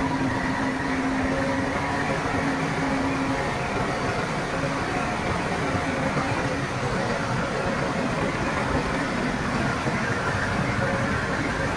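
Heavy earthmoving machinery running steadily, a continuous diesel engine drone with a few held tones; the lowest tone fades out about three seconds in.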